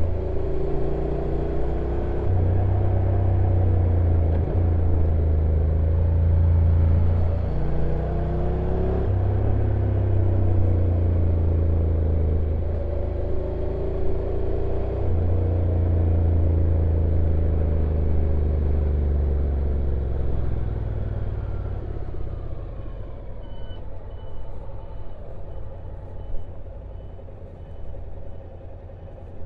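Honda NC750X DCT's parallel-twin engine running on a downhill ride, its pitch stepping several times as the dual-clutch transmission changes gear. Past the two-thirds mark it drops away to a quieter low rumble as the bike slows, with a faint repeated high beep near the end.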